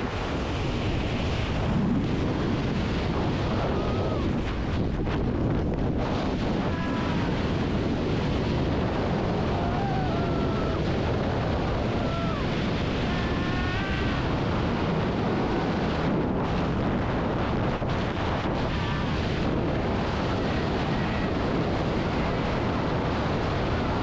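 Strong wind rushing over a skydiver's camera microphone, a steady unbroken roar typical of a freefall, with a few faint wavering cries in it around the middle.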